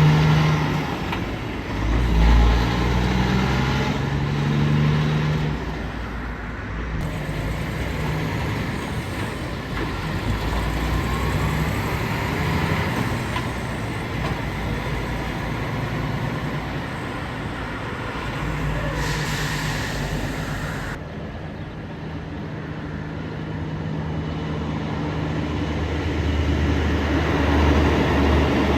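Heavy vehicles passing, a continuous drone of big engines and rolling noise with low engine tones that rise and fall as they go by.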